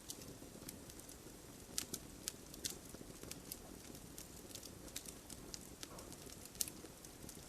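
Wood campfire burning, with irregular sharp crackles and pops over a soft low rustle of flames.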